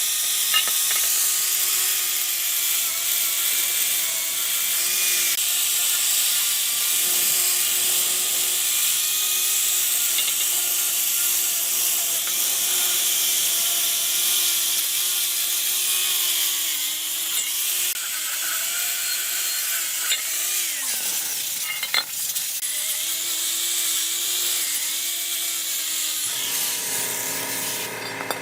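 Small electric power tool running with a steady whine over a scraping hiss, the pitch wavering and sagging briefly as it is pressed into the work; a couple of sharp clicks follow the dip.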